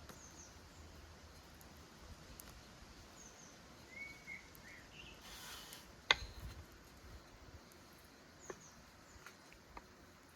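Quiet outdoor ambience with a few faint bird chirps, a sharp click about six seconds in and a few lighter clicks near the end.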